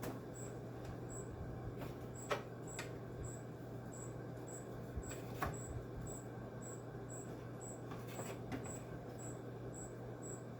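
A few light clicks and knocks from parts being handled during disassembly of a window air conditioner, the sharpest a couple of seconds in, over a low steady hum. A faint high chirp repeats about two or three times a second throughout.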